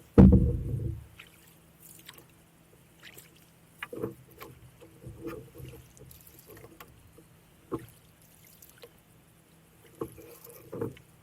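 Canoe being paddled: separate paddle strokes and knocks every one to three seconds, with one loud low thump just after the start.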